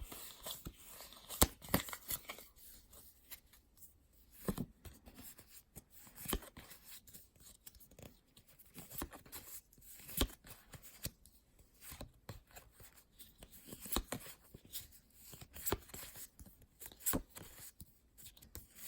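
Pokémon trading card booster packs being handled: foil wrappers tearing and crinkling and cards being flipped, as irregular soft clicks and rustles.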